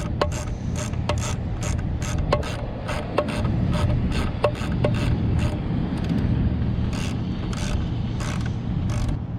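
Hand tools working on metal fittings: a run of sharp metallic clicks, roughly two a second, spacing out toward the end, over a steady low hum.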